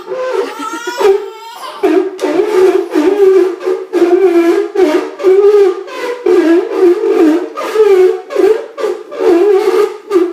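Toddler making loud, wavering vocal noises: a string of held, high-pitched wails that wobble in pitch, broken by short pauses about every half second.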